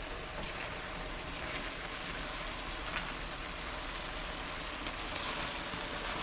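Squash and tomato sizzling steadily in a pot on a stove turned up a little, with two faint clicks, about three and five seconds in.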